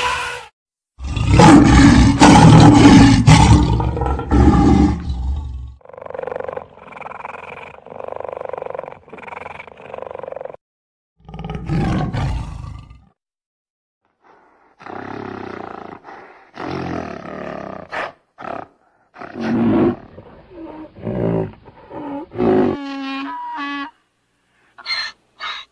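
A string of recorded wild-animal sound effects: a loud roar of about five seconds starting about a second in, followed by a series of shorter calls and cries of varying pitch, some with pulsing, stacked tones near the end.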